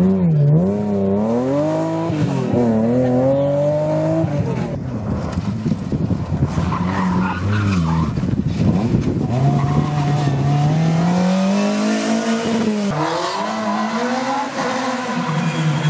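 A rally car engine revving hard and dropping back again and again through gear changes, with tyres skidding. There is an abrupt break about thirteen seconds in.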